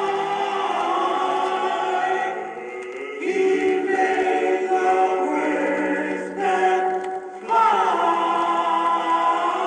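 Male doo-wop vocal group singing held harmony chords on an old record, the chords changing twice with short dips about two and a half and seven seconds in.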